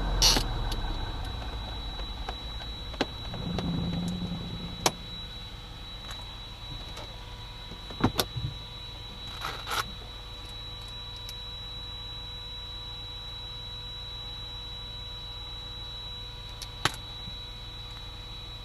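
Scattered sharp clicks and knocks, a cluster about 8 to 10 seconds in, over a steady high electrical whine and hum.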